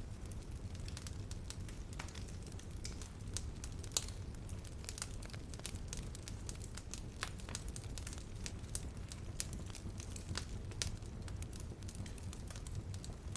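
Wood fire burning in a fireplace: a steady low rumble with frequent irregular crackles and pops, one sharper pop about four seconds in.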